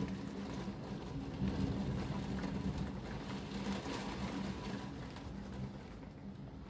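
Heavy thunderstorm rain heard from indoors through a closed window: an even hiss with scattered faint taps of drops, easing slightly toward the end.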